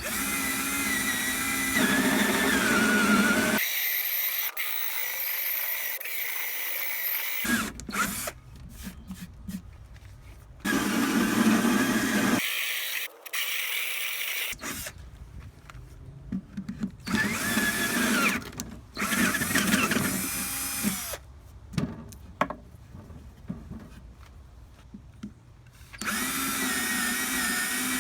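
Handheld electric power tool running in several short spells, its motor whining, with abrupt stops and starts and quieter stretches in between.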